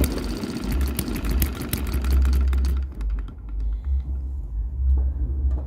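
Model hit-and-miss engine running slowly at scale speed, its governor springs rewound softer and its fuel of lower octane, with a rapid run of ticks over a low rumble. About three seconds in, the ticking thins out to a few scattered ticks while the low rumble carries on.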